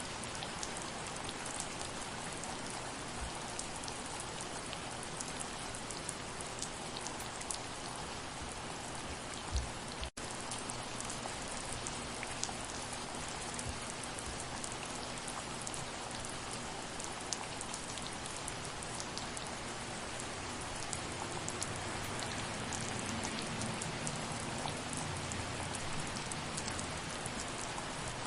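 Steady rain falling, an even hiss with many individual drops ticking. The sound cuts out for an instant about ten seconds in.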